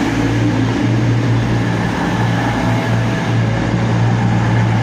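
Class 221 Voyager diesel-electric multiple unit's underfloor diesel engines running with a steady, loud low hum.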